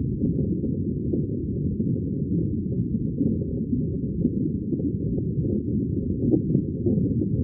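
Underwater ambience: a continuous muffled, low-pitched bubbling rumble with small bubble blips flecking it, all dull and without any high sounds.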